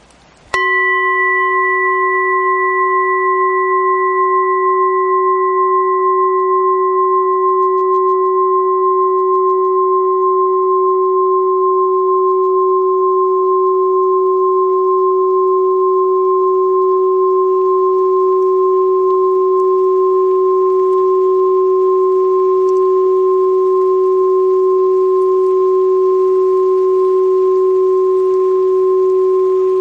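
Hand-forged Tibetan singing bowl sounding: it comes in suddenly and then rings with a steady, unwavering tone of several overtones at an even level, one higher overtone fading away partway through.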